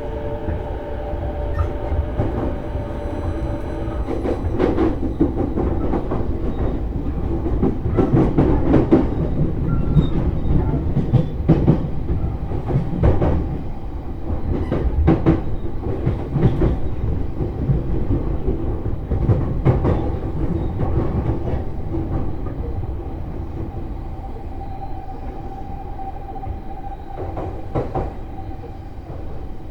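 E233 series electric train running at speed, its wheels clacking over rail joints against a steady rumble. A motor whine fades out at the start and a higher whine comes in near the end.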